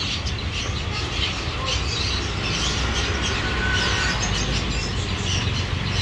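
Small caged birds chirping and tweeting over a steady low background rumble.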